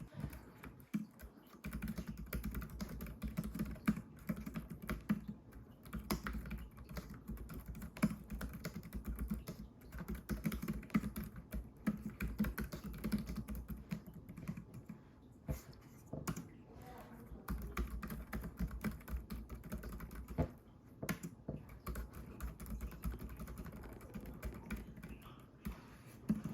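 Logitech K380 wireless keyboard being typed on: a steady, irregular patter of soft key clicks with a few louder strokes.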